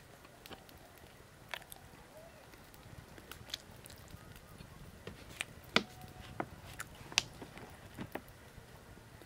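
A person eating a boiled egg: quiet chewing with scattered sharp ticks and taps, the loudest a little before and after the six-second mark.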